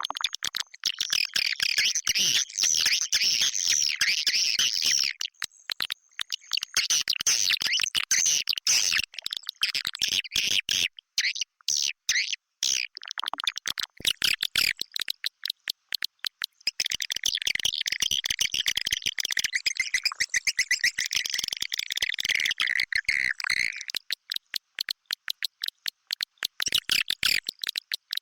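Recorded swiftlet calls used as a lure for swiftlet nesting houses: dense, rapid clicking overlaid with stretches of shrill, high twittering chatter. The chatter fades out a few times, leaving mostly clicks, most clearly over the last few seconds.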